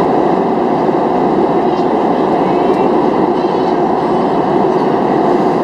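Steady cabin noise of a Boeing 737-700 in flight, the rush of airflow and the CFM56 engines heard from inside the passenger cabin.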